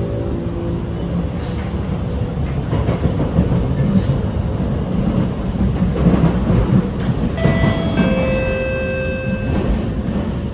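SMRT R151 train heard from inside the carriage: steady rumble of wheels on the track with a few clicks from rail joints. About seven seconds in, the traction motors give a set of steady electronic tones for about two seconds as the train slows into the terminal station.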